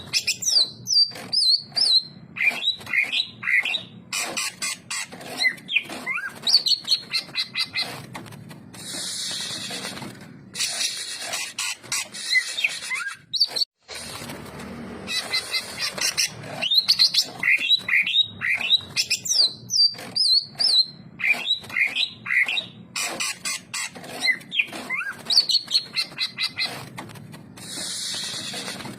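Green leafbird (cucak ijo) singing energetically: long runs of quick, sliding whistled notes broken by harsher, scratchy phrases, with a brief gap about halfway through.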